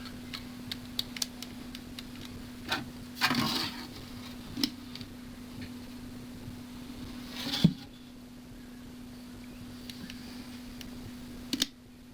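Workshop handling sounds: scattered sharp clicks and taps, with two short rustling or scraping bursts, over a steady low hum.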